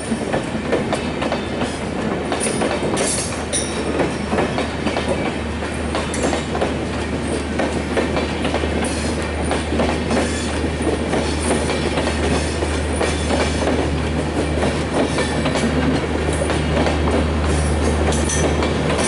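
Passenger train coaches rolling past close by, their wheels clattering steadily over the rail joints. A steady low hum builds up and grows louder through the second half.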